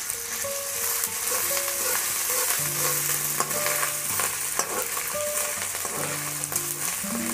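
Onions and spices sizzling in hot oil in a metal kadai, stirred and scraped with a metal spatula, with scattered sharp scrapes and clicks against the pan.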